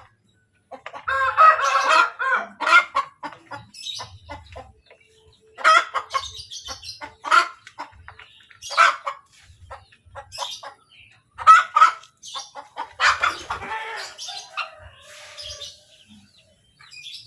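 Domestic hen cackling in about three bouts of quick, loud clucks: the egg song a hen gives after laying.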